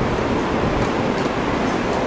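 Steady hiss and rumble of background room noise, with a few faint small ticks.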